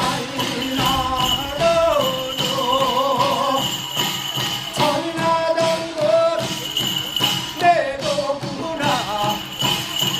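Korean shamanic ritual music: bells jingling over steady drumming, with a wavering melodic line held above them.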